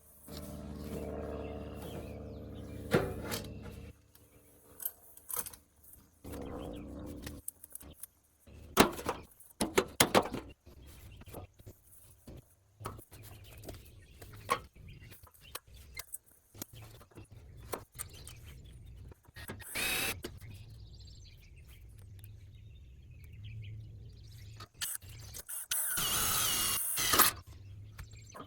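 Electric drill running in short bursts while drilling through metal chair parts: a steady run for the first few seconds and a louder, harsher one near the end, with clicks and knocks of the parts being handled in between.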